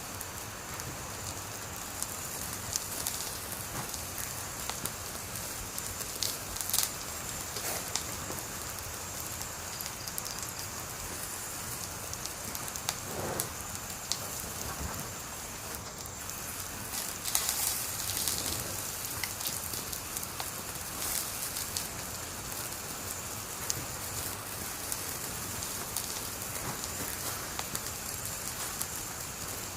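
Wood fire burning steadily, a continuous hiss with scattered sharp crackles and pops from the burning wood, a few of them in quick clusters.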